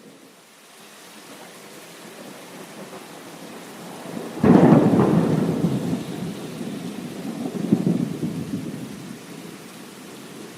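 Steady rain with a sudden clap of thunder about halfway through that rumbles on, swells again a few seconds later, then dies away into the rain.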